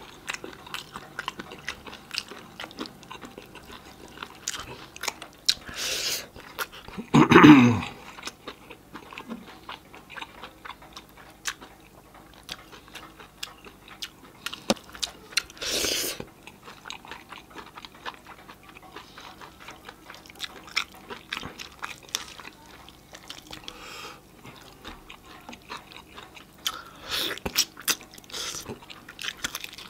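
Close-miked chewing and biting of roast chicken eaten by hand: wet mouth smacks and soft crunches of meat on the bone. A few louder bursts come about a quarter of the way in, at about the middle, and near the end.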